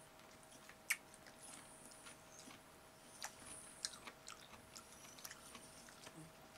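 Faint chewing of a mouthful of food with the mouth closed, with scattered small mouth clicks and one sharper click about a second in. A faint steady hum sits underneath.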